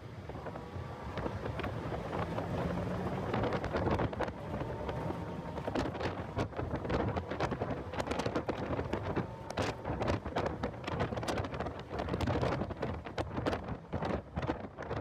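Heavy wind buffeting on the microphone of a car driven at speed, a choppy rumble and crackle that grows harsher a few seconds in, with the car's engine faintly underneath.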